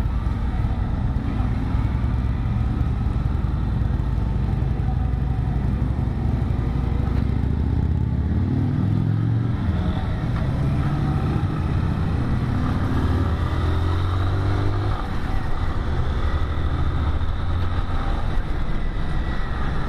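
Yamaha XT 600E's single-cylinder engine running while the bike is ridden at low speed, its revs rising and falling a couple of times with the throttle.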